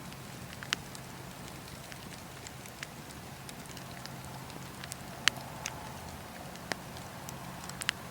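Fireplace fire crackling: a scattering of sharp pops over a steady low hum, the loudest pop about five seconds in.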